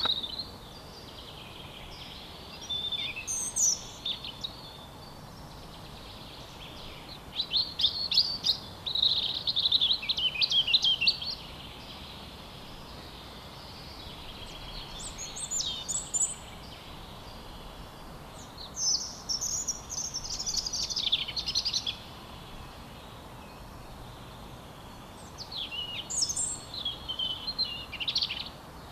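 European robin singing: about five high, rapidly varied warbling phrases, each a few seconds long, separated by pauses of a few seconds, over a steady outdoor hiss.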